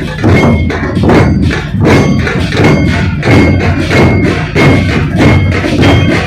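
A Maharashtrian dhol pathak drum troupe playing a loud, driving beat, many large barrel drums struck together in a steady rhythm.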